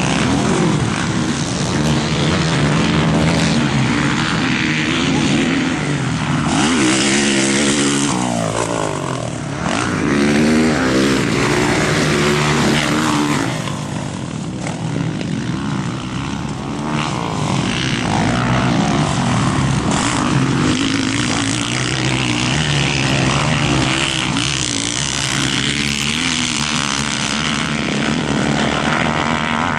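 Several motocross bikes racing on the track, their engines revving up and dropping back over and over, with more than one engine heard at once.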